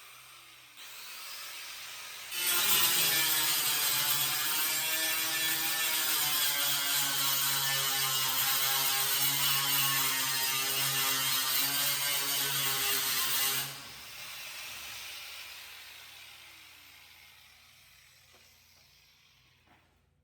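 Electric grinder on sheet-metal bodywork. It spins lightly at first, then grinds hard for about eleven seconds with a steady whine and hiss, and afterwards slowly winds down.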